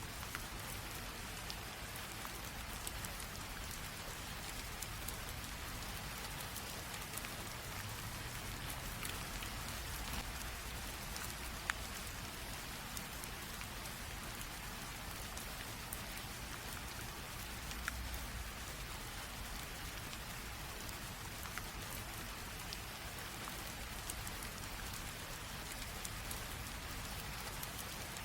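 Light rain drizzle falling steadily, a soft even hiss with scattered individual drops ticking, a couple of them sharper, about 12 and 18 seconds in.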